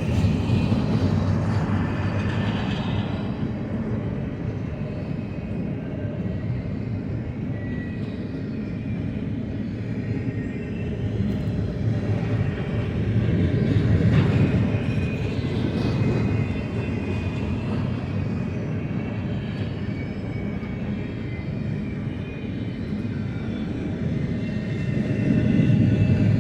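BNSF double-stack intermodal freight train passing close by: a steady rumble of steel wheels on rail, with a few faint high thin tones, swelling about halfway through and again at the end.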